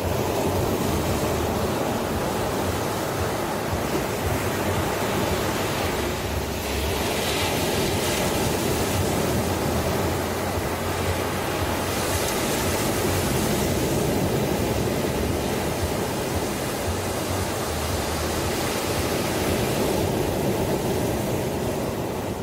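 Ocean surf: waves breaking and washing in as a steady, continuous rush, with hissier swells about seven and twelve seconds in.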